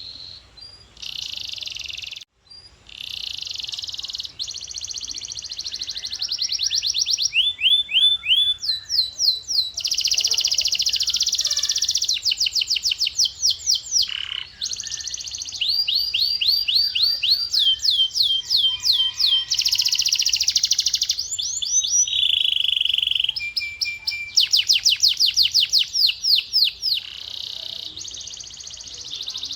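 Male canary singing: fast trills of rapidly repeated high notes, switching to a new kind of trill every second or two, with a short break about two seconds in.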